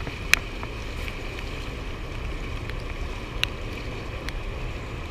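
Steady rush of wind and fast river water below a dam, with a few sharp clicks, the loudest near the start.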